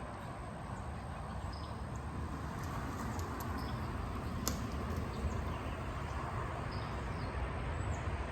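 A vehicle going slowly past, a steady low rumble, with short faint bird chirps now and then and a single click about halfway through.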